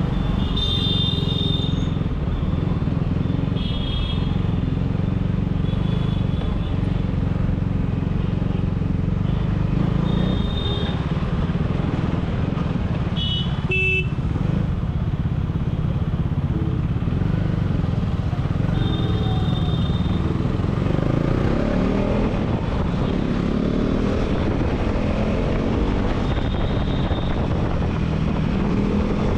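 KTM Duke 390's single-cylinder engine running through an aftermarket dual exhaust, a loud steady drone as the bike is ridden, with the pitch shifting between about 22 and 28 seconds. Other vehicles' horns honk briefly several times in the traffic.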